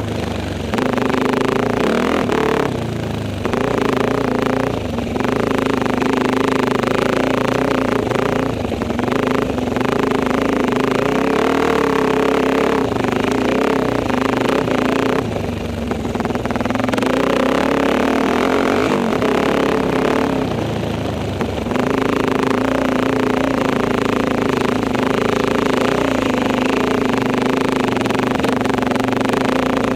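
Enduro motorcycle engine running under load, its pitch rising and falling as the throttle opens and closes, with a few brief drops where the throttle is shut off.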